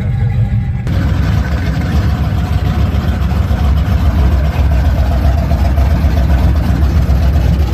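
Car engine running with a loud, low exhaust note that pulses steadily, growing louder and fuller about a second in.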